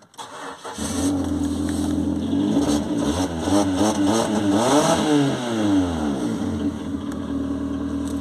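Ford Focus diesel engine starting just under a second in and idling, then revved once, rising and falling back to idle. The exhaust is loud because the O2 (lambda) sensor has blown out of its damaged, cross-threaded port, leaving the sensor hole in the exhaust open.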